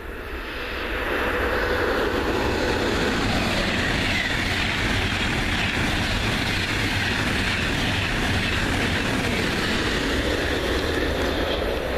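Deutsche Bahn ICE high-speed train passing close at speed: a dense rushing noise of wheels on rails and air that builds over the first second or so, then holds steady and loud as the coaches go by.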